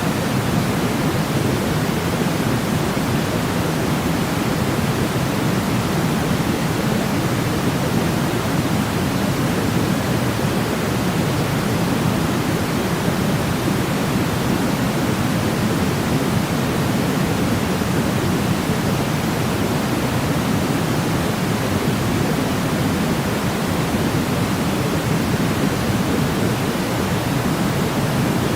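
Steady white-noise sleep sound: an even, unbroken hiss weighted toward the low end, with no change in level or pattern.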